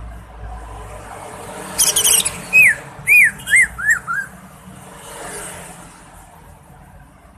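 Cucak ijo (leafbird) singing: a short burst of quick, harsh high notes about two seconds in, then a run of five whistled notes, each sliding downward and each a step lower than the last.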